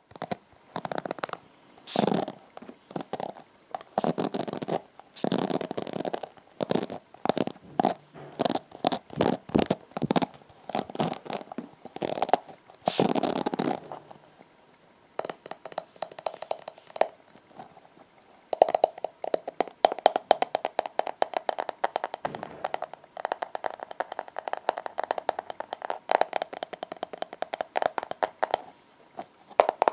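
Hairbrush bristles scratched and brushed in quick, irregular strokes while the brush is cleaned. The strokes thin out around the middle, then come in a faster, denser run.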